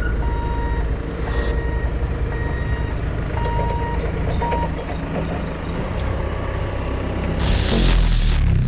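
A vehicle's reversing alarm beeping on and off over a steady low engine rumble. About seven seconds in, a loud hissing noise rises over it.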